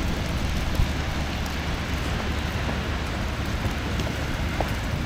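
Steady city street noise in a snowstorm: a low rumble of traffic and wind under an even wet hiss of falling snow and slush. A few faint clicks and one short knock come about a second in.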